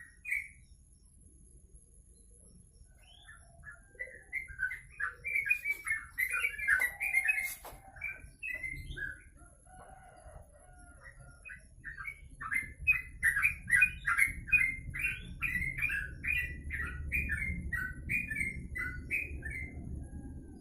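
Caged songbird singing in runs of quick, repeated chirps: one run from about three to nine seconds in, and a longer one from about twelve seconds to near the end.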